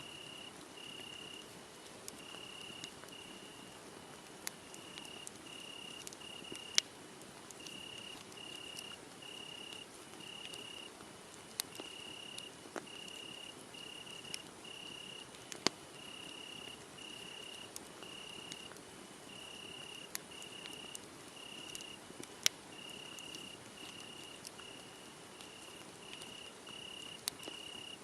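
Crickets chirping in a steady, regular series of high chirps, about one and a half a second, over the occasional sharp crackles and pops of a wood fire.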